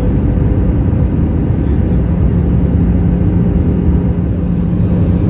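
Airbus A320 cabin noise: a loud, steady rumble from the CFM56 engines and airflow. A steady low hum joins in about two seconds in.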